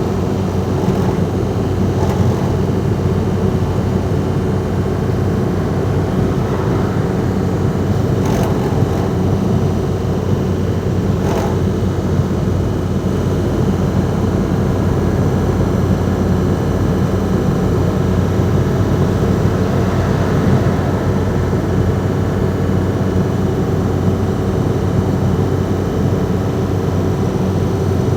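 Ford Transit Mk5's 2.5-litre 'banana' diesel engine running while the van is driven, a steady low hum that holds one pitch throughout.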